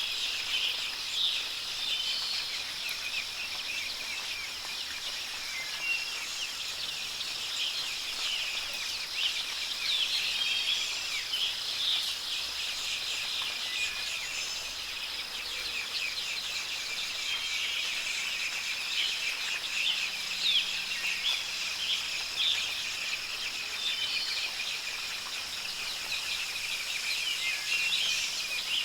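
A chorus of many wild birds chirping and calling in quick short notes, over a steady high-pitched hiss with a continuous insect-like trill.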